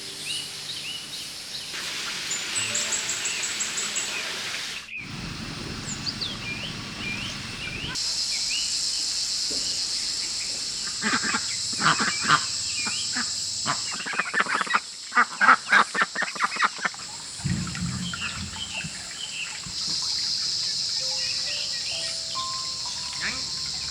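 Birds chirping and a steady high insect drone, in short segments that cut from one to the next, over soft background music. Near the middle comes a quick run of sharp, repeated calls or strikes, a few each second.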